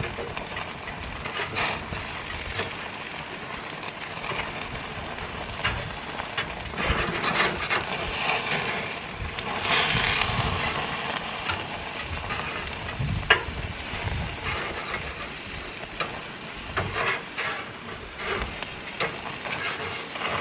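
Hamburger patties sizzling on a grill, a steady frying hiss with scattered short clicks and pops, the sharpest about thirteen seconds in.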